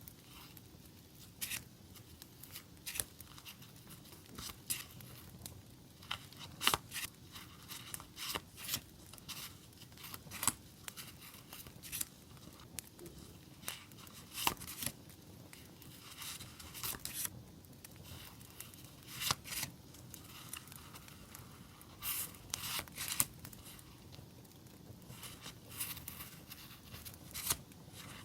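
Paper stationery and sticker sheets being handled, with irregular rustling, crinkling and tearing and sharp paper crackles.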